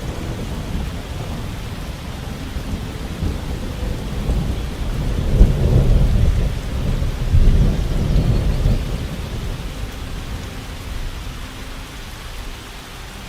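Steady rain with a long roll of thunder that swells loudest in the middle and fades away toward the end.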